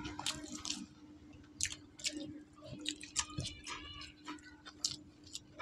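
Two people eating rice with their hands: scattered soft chewing and lip-smacking clicks, and fingers working rice on the plates, over a faint steady hum.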